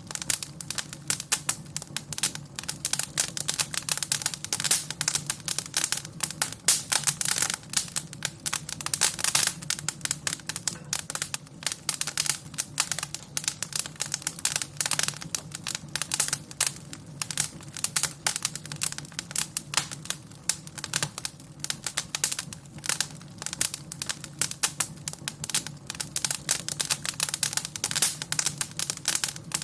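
Wood fire crackling in a fireplace: a dense, irregular run of pops and snaps over a steady low hum.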